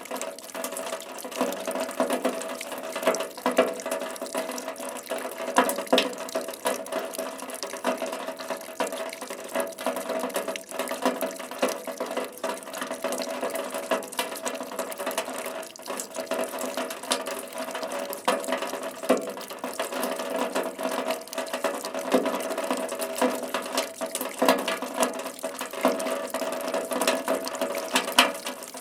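Rain falling steadily, a continuous hiss of water with many individual drops striking sharply throughout.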